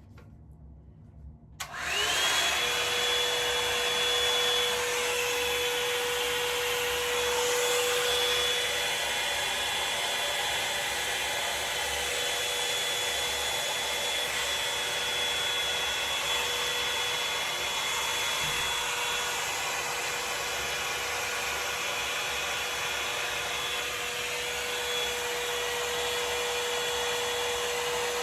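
Revlon One Step hot-air brush switched on about a second and a half in: its motor whines up to speed in a moment, then runs steadily, a high whine over the rush of blown air.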